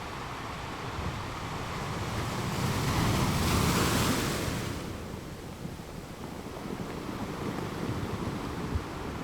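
Ocean wave breaking on rocks: the surf noise builds to a peak a few seconds in, then washes back and subsides into a steady rumble.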